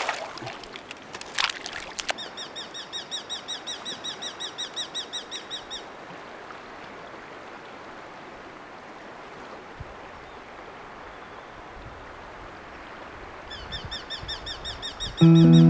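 River water running steadily, with a bird calling in a fast run of high chirps, about eight a second, from about two seconds in for some four seconds and again near the end.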